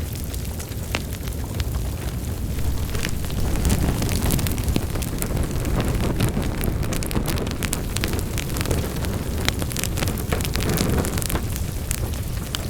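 Wood fire burning in a fireplace: a steady low rumble of flames with frequent sharp crackles and pops, busier through the middle.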